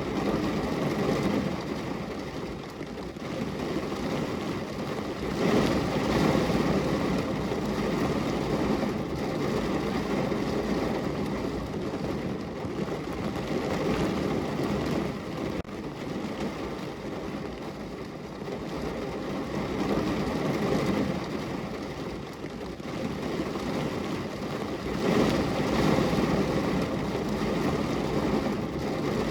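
Heavy rain falling on a car's roof and body, heard from inside the car as a steady, dense hiss. It swells louder a few seconds in and again near the end.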